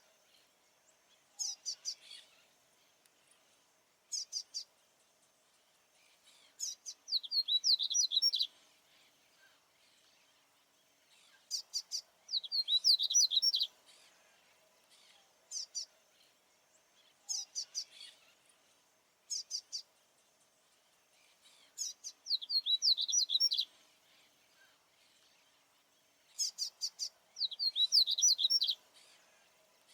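Male papa-capim baianinho seedeater singing over and over: a few short, sharp high notes, then a fast run of twittering song phrases, repeating roughly every five seconds. A faint steady hum lies underneath.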